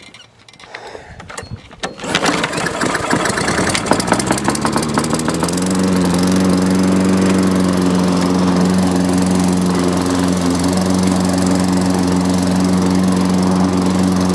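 Lawn mower's newly swapped-in small engine starting about two seconds in, picking up speed for a few seconds, then running steadily at speed. The transplant has worked: the mower runs.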